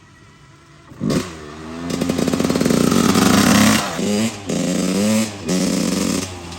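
A 125 cc two-stroke dirt bike starts revving about a second in and pulls away. Its pitch climbs and falls in surges, broken by several short dips where the throttle is rolled off.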